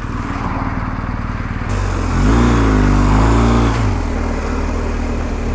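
BMW R1250GS Adventure's boxer twin engine running on the move with wind rushing past. Partway through it gets louder and its pitch rises and then falls as the throttle is opened and eased off, before it settles back to a steady cruise.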